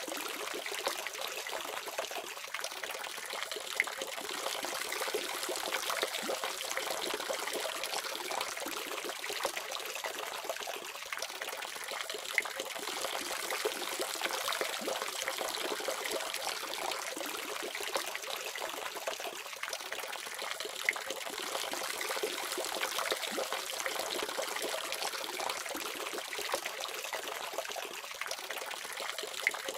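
Water from a tap running steadily into a basin, an even splashing with small scattered droplet ticks.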